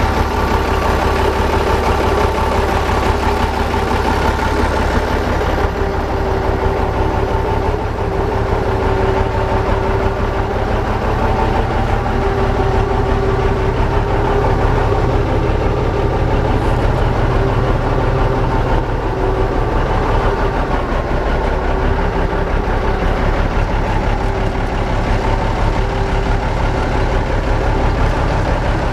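1977 Ford 9000 tandem-axle grain truck's engine idling steadily.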